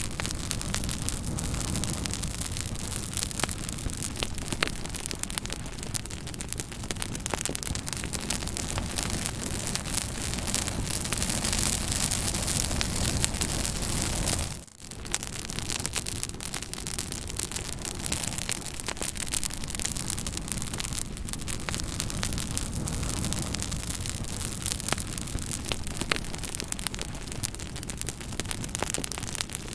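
Wood fire crackling: a steady hiss of flames with many sharp little pops and snaps scattered through it, briefly dipping quieter about halfway through.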